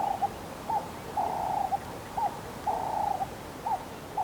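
A bird calling over and over: a longer, rough note followed by a short arched note, the pair repeating about every one and a half seconds.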